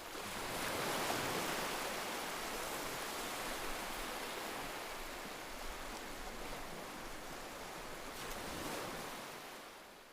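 Sea surf washing onto a beach, a steady rush of breaking waves that swells about a second in and again near the end, then fades out.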